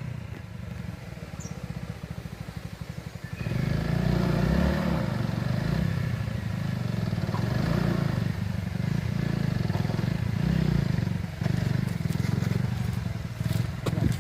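Motorcycle engine ticking over with an even, rapid beat, then opening up suddenly about three and a half seconds in and running steadily under load.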